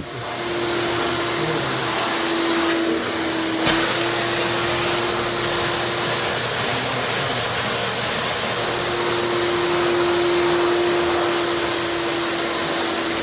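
RIDGID 16-gallon wet/dry shop vacuum running, a steady motor whine over loud rushing air that comes up to speed in the first second. A short click about three and a half seconds in.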